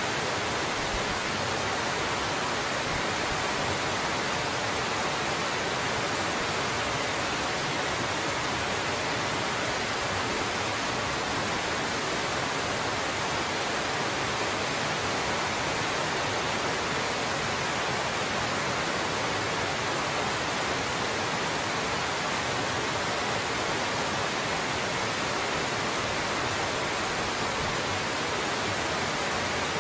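Waterfall spilling over ice, a steady even rush of falling water that does not change.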